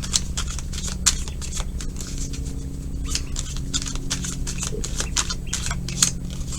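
Tarot cards being handled and shuffled: a run of short, irregular papery clicks and snaps, over a steady low hum.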